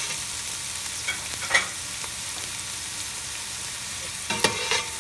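Sliced garlic and red onion sizzling in hot olive oil in a stainless steel pot, stirred with a metal spoon that scrapes and clinks against the pot about one and a half seconds in and twice near the end.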